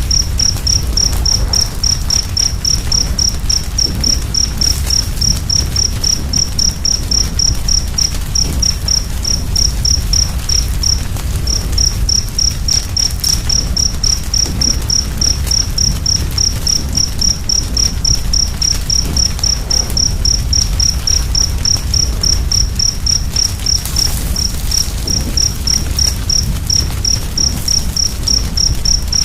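A wood fire's low rumble with faint occasional crackles, under a high, evenly repeated chirping of about four chirps a second that breaks off briefly near the middle.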